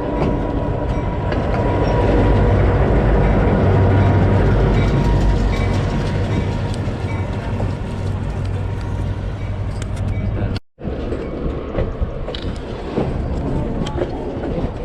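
Passenger train running along the track, heard from aboard a coach: a steady low rumble with sharp clicks from the wheels over the rails in the later part. The sound cuts out for an instant about eleven seconds in.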